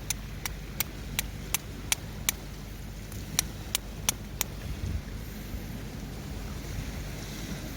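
Flint and steel striking to throw sparks onto char punk wood: a run of seven sharp metallic clicks at about three a second, a short pause, then four more, over a steady low hum.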